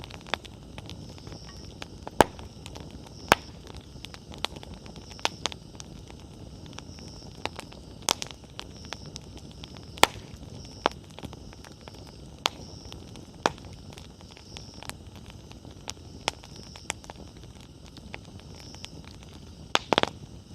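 Wood campfire burning with a low steady rush, broken by irregular sharp crackles and pops of the firewood every second or two. The loudest pops come about two seconds in, about halfway, and near the end.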